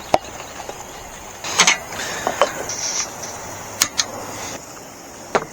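Camp cooking gear being handled: four sharp clicks and knocks, spread out over a few seconds, over a steady hiss.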